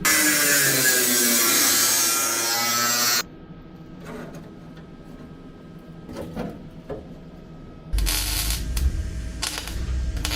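A handheld power tool runs loudly for about three seconds, its pitch sliding down, then cuts off suddenly. After a quieter stretch with a few knocks, loud uneven workshop noise comes back near the end.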